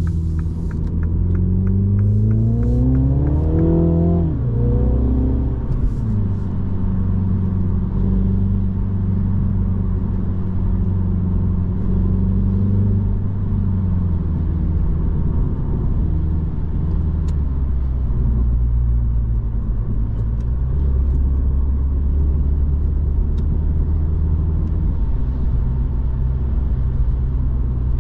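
Mini Cooper S's 2.0-litre turbocharged four-cylinder heard from inside the cabin, pulling hard with its pitch rising for about four seconds. The pitch then drops sharply at an upshift of the automatic gearbox. After that it cruises steadily over tyre and road rumble, with another small drop in engine note about halfway through.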